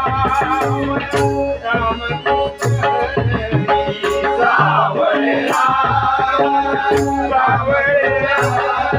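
Traditional Marathi bhajan accompaniment without singing: a hand drum playing a steady rhythm under a sustained melodic instrument, with sharp metallic percussion strokes keeping time.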